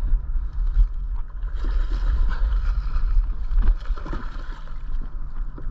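Water splashing and knocking around a boat as a hooked bass is fought to the side and landed, over a steady low rumble of wind on the microphone.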